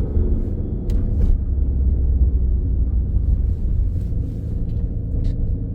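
Alfa Romeo Stelvio Quadrifoglio's twin-turbo 90-degree V6, still breathing through the stock air filter, running steadily while the car drives slowly: a low, even rumble.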